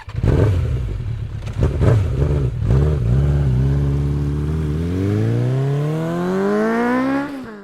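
Kawasaki ZX12R's 1200cc inline-four, breathing through an aftermarket exhaust, revved in several quick blips and then run up in one long rev that climbs steadily for about two and a half seconds before falling back near the end.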